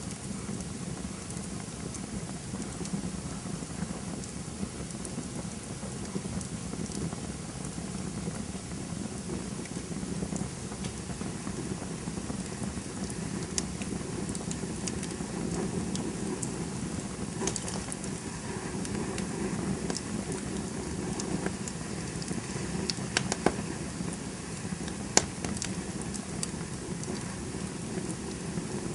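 Campfire burning with a steady low rush of flames and scattered crackles and pops, a few sharper pops from about 17 to 26 seconds in.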